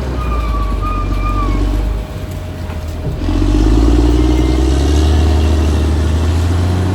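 Caterpillar D6R XL bulldozer's diesel engine running under load. It eases off about two seconds in, then pulls hard again a second later. A faint high squeal sounds near the start.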